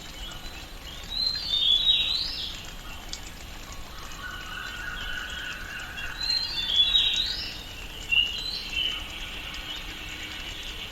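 Tropical rainforest ambience: birds calling in two bursts of quick sweeping notes, about a second in and again about six seconds in, over a steady background hiss.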